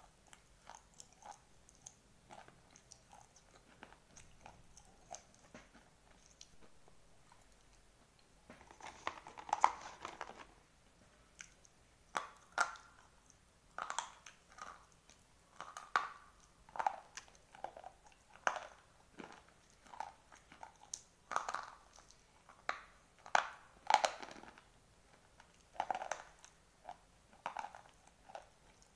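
Dry white slate pencils being bitten and chewed. Soft, quiet chewing at first, then a loud crunching bite about nine seconds in. After that come sharp crunches about once a second as the pieces are chewed.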